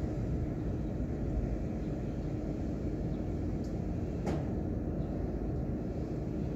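Steady low rumbling noise played as a white-noise ambience, with a faint steady hum and one short click about four seconds in.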